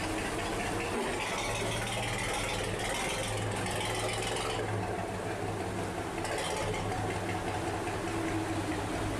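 A ship's engine running steadily with a low hum, under a continuous rush of fast-flowing water.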